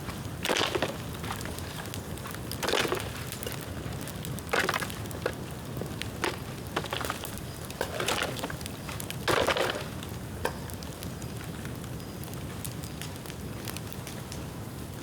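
Dead bamboo burning in an open bonfire: a steady low rumble of flame with many sharp crackles, and five louder crackling bursts in the first ten seconds, after which only the steady crackle goes on.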